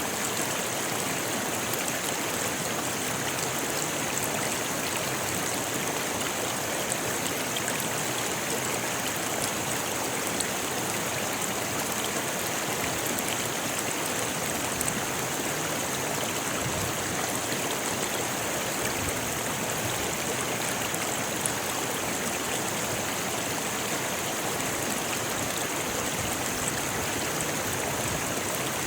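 A rocky river flowing steadily, water rushing and splashing over stones in an even hiss with small scattered splashes.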